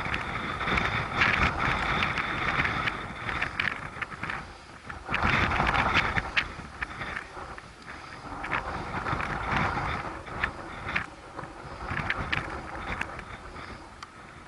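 Wind buffeting the microphone in uneven gusts, loudest about five to seven seconds in, with a few scattered knocks.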